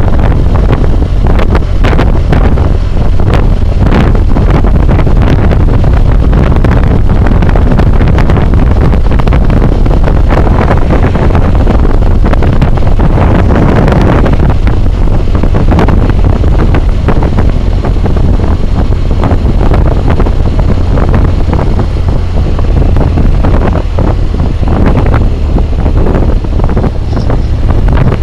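Wind roar and buffeting on a helmet-mounted camera's microphone on a moving motorcycle, loud and constant, drowning out most other sound.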